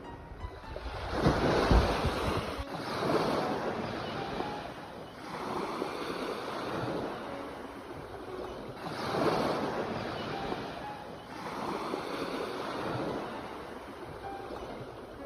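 Ocean waves breaking and washing onto a shore, a new surge swelling and fading every two to three seconds, the strongest about a second in.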